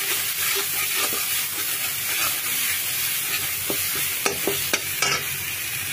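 Onion and ginger-garlic paste with turmeric and chili powder sizzling in hot oil in a kadai, stirred and scraped with a metal spatula. A few sharp clicks of the spatula on the pan come about four to five seconds in.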